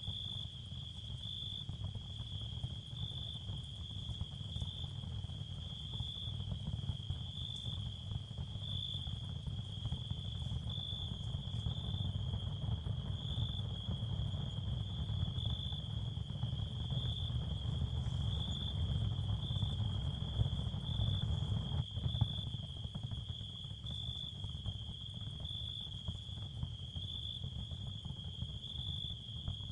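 Ambient sound-therapy bed for tinnitus with no narration. A steady high-pitched, cricket-like trill swells gently about once a second over a low, continuous rumble.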